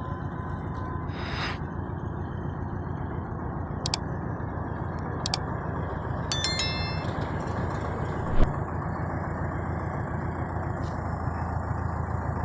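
Heavy truck running on a road: a steady rumble of engine and road noise. A short ringing tone sounds just after six seconds, and a sharp thump about eight and a half seconds in is the loudest moment.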